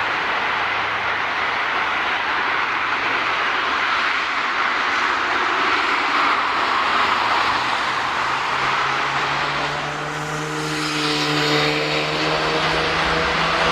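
Airbus A330-343's Rolls-Royce Trent 700 jet engines making a steady, loud jet noise, with whining engine tones coming in about ten seconds in.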